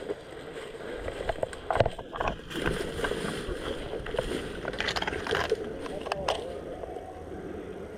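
Irregular rustling and scuffing with scattered short knocks, the sharpest about two seconds in, like a player moving with his kit.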